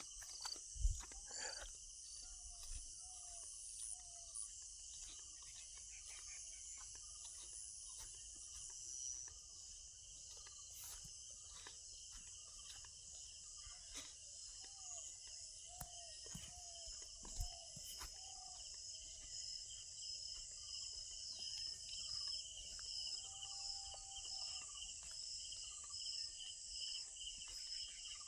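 A steady chorus of insects, crickets among them, chirring in high bands with an even pulsing beat. Scattered clicks and a few knocks sound over it, the loudest just under a second in.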